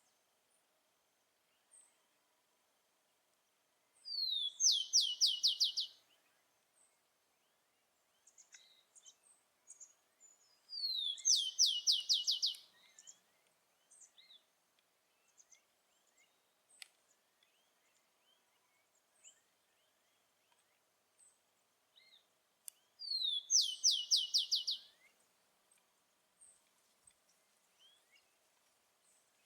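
Rufous-collared sparrow (tico-tico) singing three songs, each a short falling whistle followed by a quick trill lasting about two seconds, with long pauses between. Faint scattered chirps and a low steady background hum fill the gaps.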